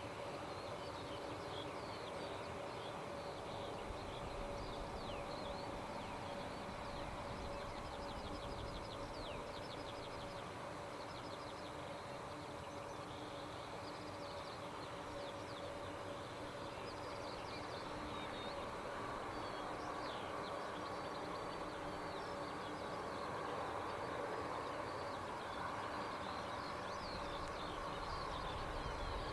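Small birds chirping and trilling again and again over a faint, steady hum that holds a few low tones; a higher tone joins the hum about two-thirds of the way through.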